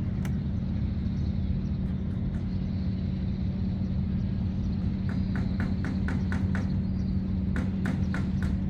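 Steady low rumble of a vessel's diesel engine running, with a constant low hum. From about halfway through, a run of short, regular clicks joins it, about three a second.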